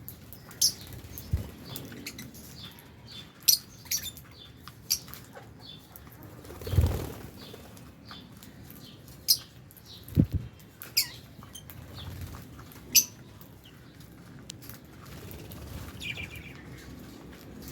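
A flock of lovebirds in an aviary giving short, sharp high chirps at an irregular pace, with wing flutters and a few soft thumps of birds moving about, the loudest a little past the middle.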